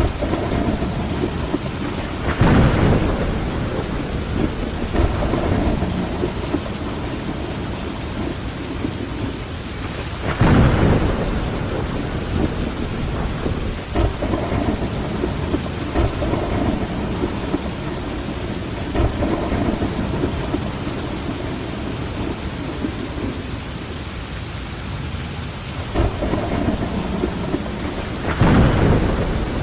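Steady rain tapping on window glass, with thunder rumbling in three swells: a couple of seconds in, about ten seconds in, and near the end.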